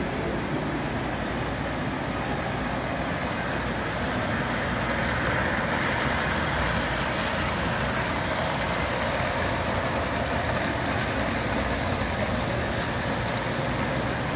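Model trains running on a large miniature railroad layout: a steady, even rumble and hum with no breaks.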